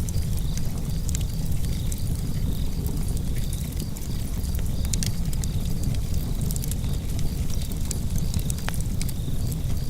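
Wood fire in a fireplace burning with a steady low rumble and frequent small, sharp crackles and pops from the burning logs.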